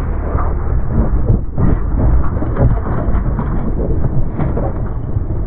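Mountain bike riding down a steep, rocky dirt trail: a continuous rumble of tyres over dirt and rocks, with irregular knocks and rattles from the bike, heard muffled through the POV camera's microphone.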